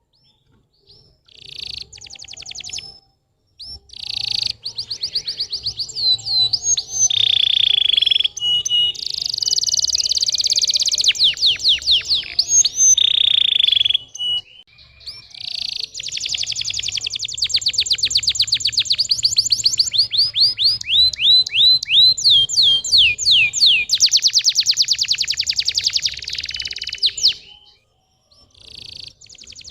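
Domestic canary singing a long, loud song of very fast trills and rolls mixed with quick falling whistled notes, broken into phrases by short pauses.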